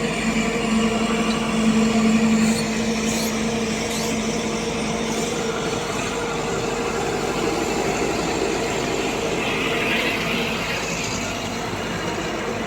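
Heavy diesel engine of the machinery running steadily with a constant-pitch drone, and a few faint clicks about two to four seconds in.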